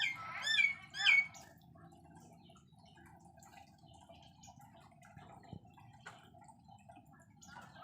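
Small aviary birds chirping, three loud curving chirps in quick succession near the start, then only faint scattered chirps and ticks over a low steady hum.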